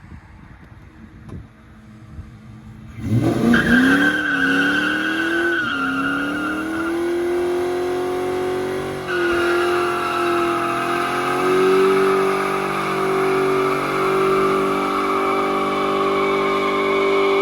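Ford Mustang GT's 4.6-litre two-valve V8 with headers and full exhaust running quietly at first, then about three seconds in it revs up hard and the rear tyres break loose in a burnout. The engine is held at high revs with a long, steady tyre squeal, the pitch shifting once about nine seconds in.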